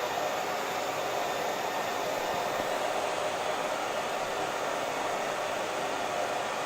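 Hair dryer running steadily, an even blowing rush with a faint high whine from its motor.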